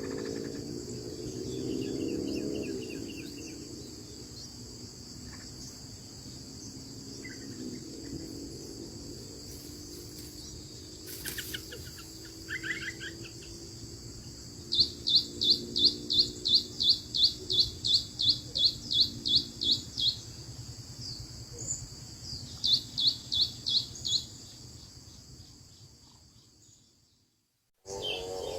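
Birds chirping over a steady high insect drone: a few scattered calls, then a fast run of sharp chirps, about three a second for some five seconds, and a shorter run a few seconds later. The sound fades out near the end.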